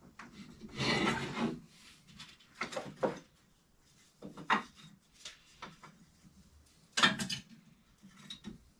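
Workshop handling noises: a knife blank and antler scales being moved and set in place by hand, in a series of short irregular scrapes and rubs. The longest comes about a second in, and a sharper one comes about seven seconds in.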